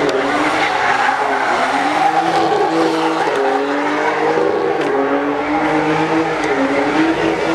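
A car doing a burnout or donuts: the engine is held at high revs, its pitch wavering up and down, over continuous tire screech.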